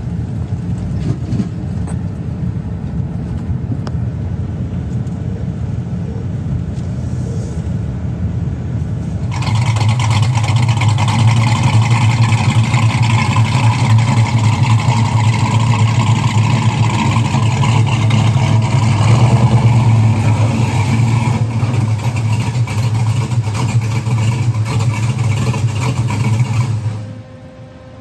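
A car engine runs as a steady low rumble. About nine seconds in it gives way abruptly to the louder, steady running of the 1966 Mustang GT's V8 through its old, largely factory-original exhaust and mufflers, which stops suddenly near the end.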